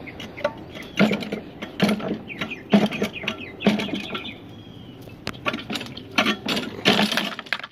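Lawn mower's recoil pull-starter yanked over and over, each pull a short mechanical clatter that stops dead without the engine turning over: the engine is locked up.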